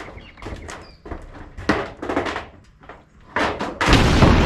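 A run of irregular knocks and clatters, then a loud steady rushing noise that starts suddenly near the end.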